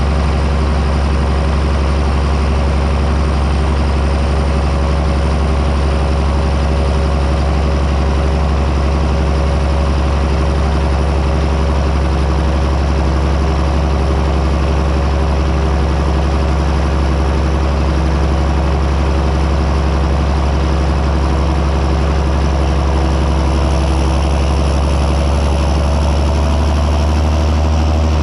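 John Deere 6630 Premium tractor's six-cylinder diesel running steadily under load while plowing: a deep, even engine drone with a thin high whine above it that rises slightly near the end.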